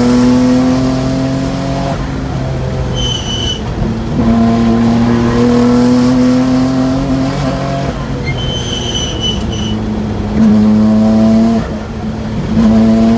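RB26DETT twin-turbo straight-six running through a titanium muffler, pulling under load in several stretches: the exhaust pitch climbs slowly for two to four seconds, falls away, then picks up again. A short high whistle comes twice over the engine note.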